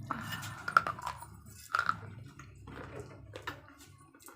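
Slate pencils being bitten and chewed, close up, with a few sharp, crisp crunches: the loudest about a second in and again near two seconds, then softer crunches toward the end.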